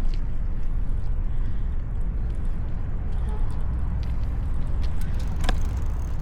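Steady low rumble of wind on the microphone and street noise while riding a bicycle, with one sharp click about five and a half seconds in.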